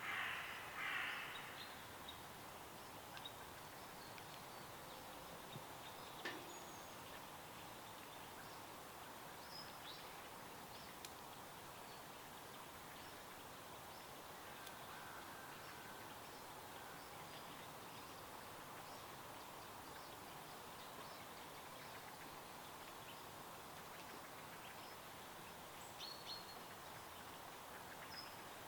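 A faint, steady hiss of stream water with wild birds calling: two loud, harsh calls right at the start, then scattered short high chirps.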